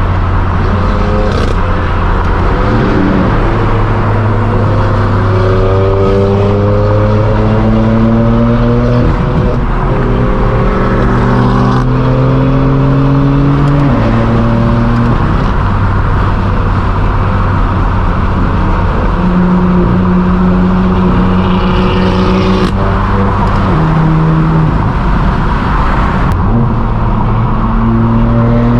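Straight-piped BMW M4 F82's twin-turbo inline-six exhaust while driving: the engine note climbs and drops back at gear changes three times in the first half, then holds steadier with further shifts and a few sharp cracks later on.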